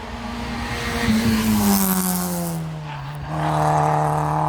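Hill-climb race car running hard past the spectators, its engine note swelling and then falling in pitch as it goes by. The engine sound rises again a little after three seconds in and holds steady.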